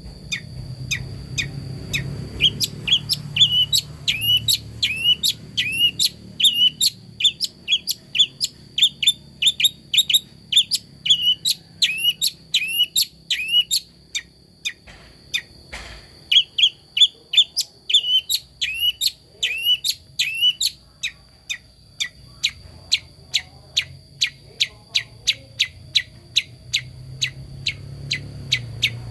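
A young long-tailed shrike (cendet) calling in a fast, repeated series of short, sharp rising notes, about two a second. About two-thirds of the way through, the rising notes stop and only quick ticks go on.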